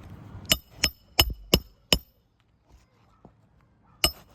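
Hammer driving a roofing nail through an asphalt shingle: five quick ringing strikes about a third of a second apart, then a single strike near the end.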